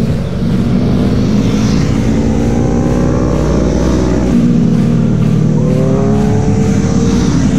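Big-bike motorcycle engine accelerating under load, its note rising steadily, dropping at a gear change a little past halfway, then climbing again.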